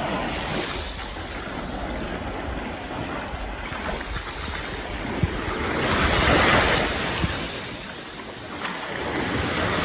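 Sea water washing and splashing, with wind buffeting the microphone; the wash swells louder about six seconds in, then eases off.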